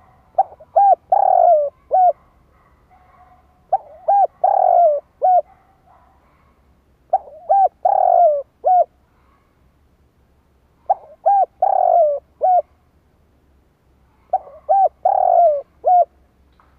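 Spotted dove cooing: five phrases about three and a half seconds apart, each a quick run of short notes around one longer, falling coo, the call used to lure wild doves.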